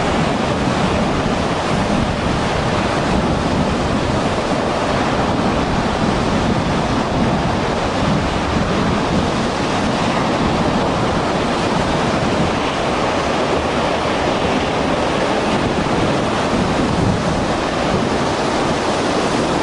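Loud, steady rushing of storm wind and rough sea surf, with wind buffeting the microphone.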